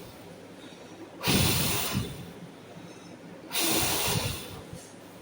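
A person blowing hard in two long puffs of breath, each about a second, starting sharply and tailing off, with wind rumble on the microphone: blowing onto freshly applied rubber adhesive on a laptop speaker surround to help it set.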